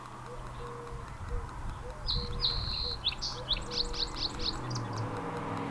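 A songbird singing about two seconds in: one high held note, then a quick run of short, falling notes. Under it a soft, low note repeats every half second or so.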